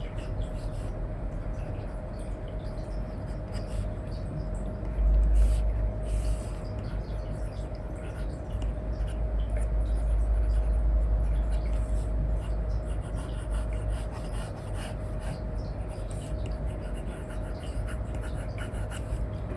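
Stylus nib scratching and tapping on an iPad's paper-like screen film in many short strokes, over a steady low hum. There is a low bump about five seconds in.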